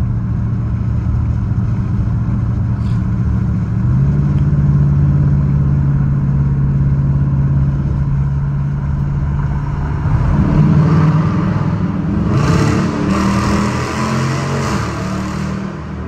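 Dodge Challenger R/T's Hemi V8 running under way. The engine note steps up in pitch about four seconds in. From about ten seconds a louder rushing stretch builds over the engine, as if under harder acceleration, and eases off near the end.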